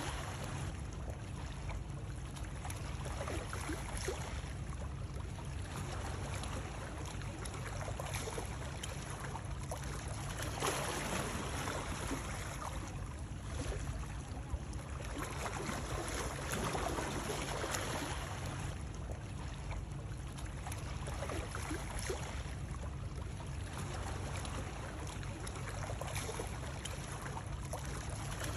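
Continuous rush of moving water over a steady low rumble, swelling gently every two to three seconds.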